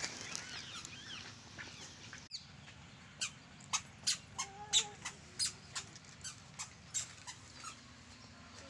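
Birds chirping: many quick rising and falling chirps, then, after a sudden cut about two seconds in, a string of short sharp sounds about three a second.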